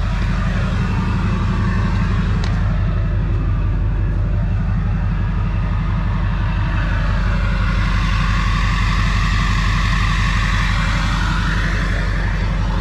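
Big tandem-axle truck's engine idling steadily with an even low rumble.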